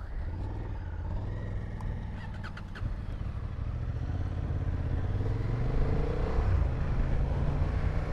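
Motorcycle engine running under way, with wind and road noise, gradually getting louder through the second half.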